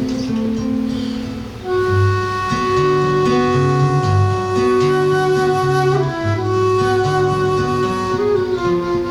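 Flute playing a slow melody of long held notes over a plucked low accompaniment. One note holds for several seconds before the melody moves on about two-thirds of the way through.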